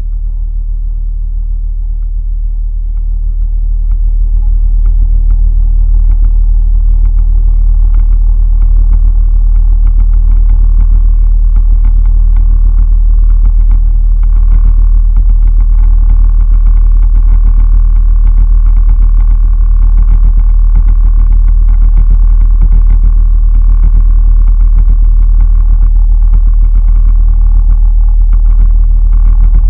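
A boat motor running steadily under a heavy low rumble; it grows louder over the first few seconds, then holds.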